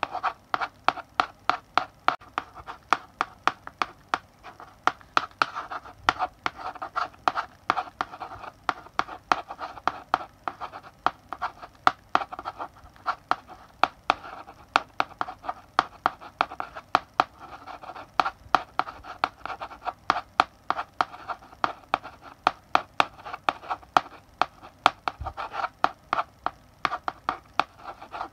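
Chalk writing on a blackboard: continuous quick taps of the chalk stick striking the board, several a second, between short scratchy strokes.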